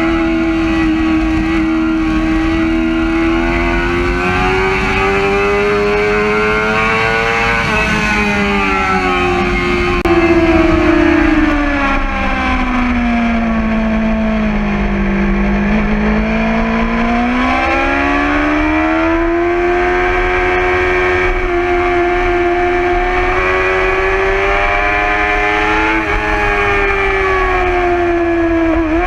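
2011 Yamaha R6 inline-four engine pulling hard at high revs, heard from the bike's own onboard camera with wind noise underneath. The pitch drops smoothly to its lowest around the middle as the bike slows for a corner, then rises again under acceleration.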